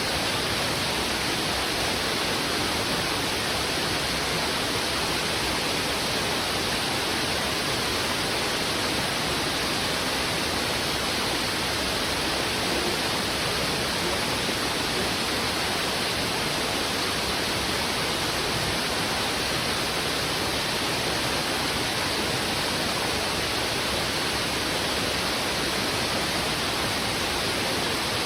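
Fast-flowing river rushing steadily, an even, unbroken wash of water noise with no breaks or changes.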